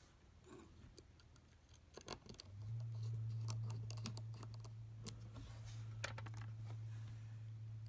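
Light, scattered clicks and scrapes of a precision screwdriver and tiny screws being worked into an iPhone 7 Plus. A steady low hum starts about two and a half seconds in.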